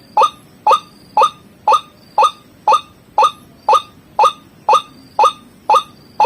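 White-breasted waterhen (ruak-ruak) call, a short rising note repeated evenly about twice a second, played as a bird-lure recording.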